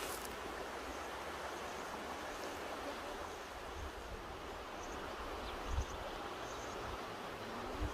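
Mountain river rushing steadily over its bed, with a brief low bump about six seconds in.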